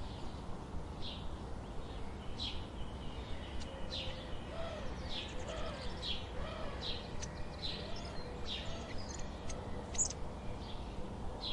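Bird chirping over and over, short high falling chirps about two a second, with a lower rising-and-falling call repeating a few times in the middle, over a faint steady background hiss.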